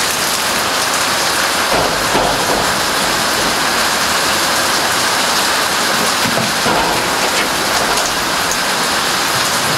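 Steady rain: a dense, even hiss, with two brief low rumbles, about two seconds in and again near seven seconds.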